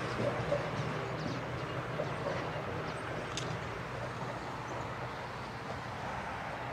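Metrorail electric multiple-unit train running on the rails at a distance: a steady low rumble and hum, with one brief sharp click a little over three seconds in.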